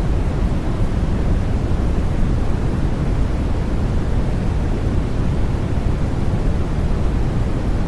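Steady white noise for baby sleep: an even, unbroken hiss weighted toward the low end, so it sounds deep and rushing rather than bright. It has no rhythm or changes.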